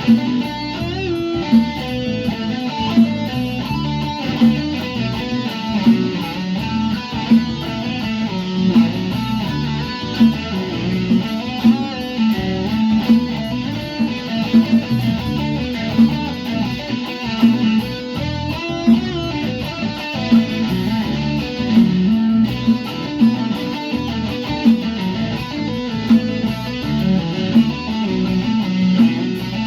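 Guitar music, plucked and strummed, with a steady pulse.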